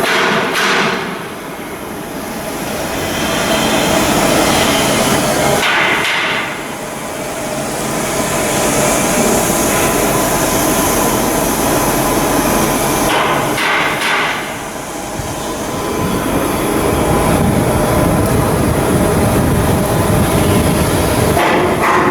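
Loud, continuous shipyard work noise, a steady clattering rumble with brief dips in level a few times.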